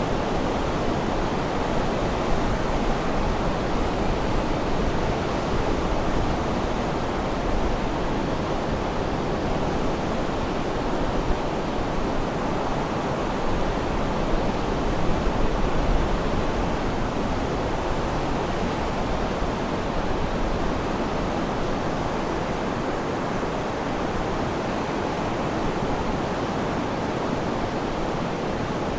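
Sea waves washing on the shore, a steady rushing surf that swells slightly in the middle.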